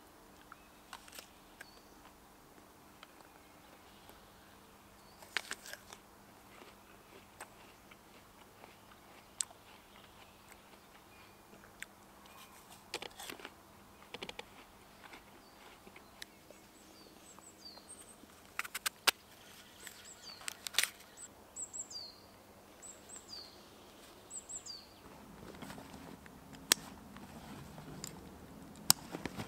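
Someone biting and chewing a firm food, with scattered sharp crunches, over quiet forest ambience. Past the middle a small bird gives a series of short downward-sliding chirps, and near the end a canvas rucksack and its metal buckle rustle and clink as they are handled.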